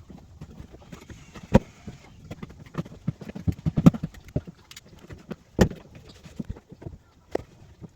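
Irregular knocks and clicks of metal bolts being pushed and worked through the rear seat box mounting holes of a Land Rover Defender, with sharper knocks about a second and a half in, around four seconds and about five and a half seconds in. The bolts are going through stiffly because they were not loosened off first.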